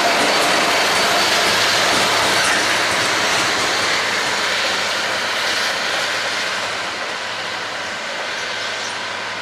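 A train running past on the rails, its noise slowly fading as it draws away.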